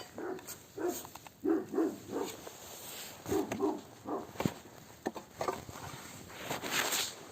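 A dog barking several times, often in quick pairs, with sharp crackles from a small bonfire of dry flower stalks between the barks.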